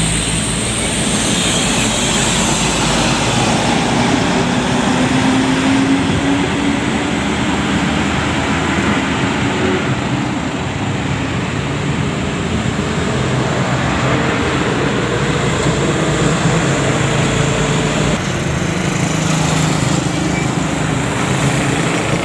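A heavy road vehicle's engine running over continuous traffic and tyre noise. Its pitch climbs slowly twice as it accelerates.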